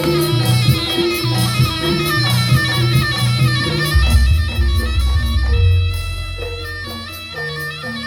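Jaranan gamelan ensemble playing an instrumental passage: a reedy wind instrument, the kind of shrill double-reed slompret used in jaranan, carries the melody over drums and pitched percussion. A deep low note swells in about halfway through and fades before the end.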